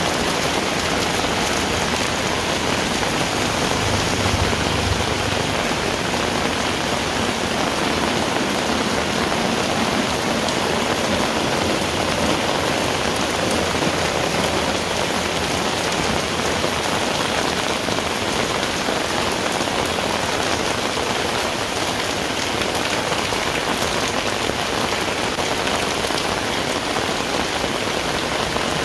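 Heavy rain falling steadily, a dense, even hiss of drops on surfaces, with a brief low rumble about four seconds in.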